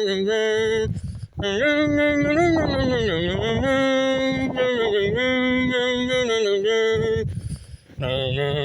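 A voice singing or intoning a melody in long held notes that slide up and down between pitches, with short breaks about a second in and again near the end.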